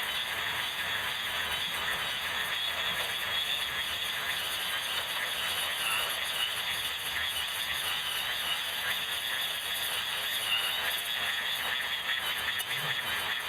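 Electric grass trimmer running steadily and cutting through grass and weeds, a continuous rattling whir.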